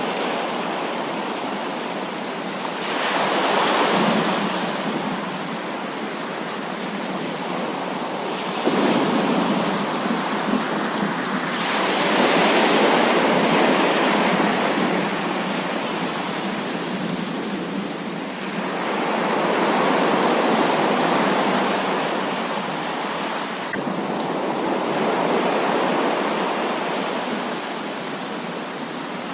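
Heavy rain falling steadily, with thunder rumbling in about five long swells, one of them breaking in suddenly about nine seconds in.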